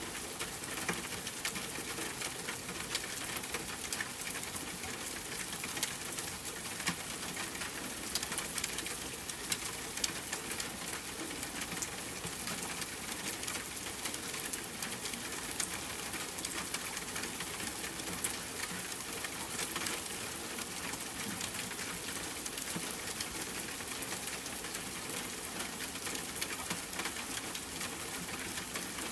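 Steady rain falling, a dense even patter with many small sharp drop taps.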